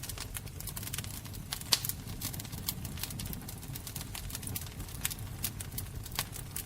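Wood fire burning, with irregular sharp crackles and pops over a low steady rumble of the flames; one louder pop a little under two seconds in.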